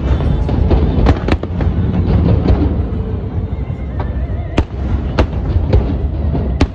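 Aerial firework shells bursting in a dense barrage: sharp bangs every half second to a second over a continuous low rumble of overlapping explosions.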